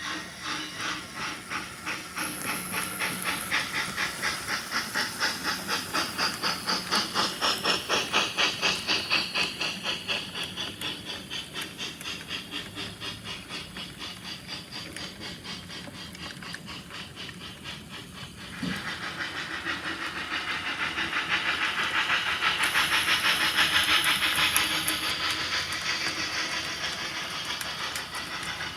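HO scale model train running on the layout track with a quick, even pulse of about three beats a second. It grows louder and fades twice as the train passes by.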